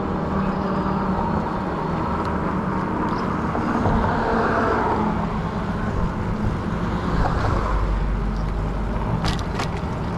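Riding noise from a 20-inch fat-tire e-bike under way: a steady hum with tyre and wind noise, wind rumbling on the microphone in the second half, and a few sharp clicks about nine seconds in.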